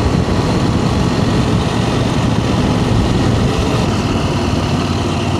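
Motorcycle engine running at a steady speed, most likely the KTM 890 Adventure R's parallel twin.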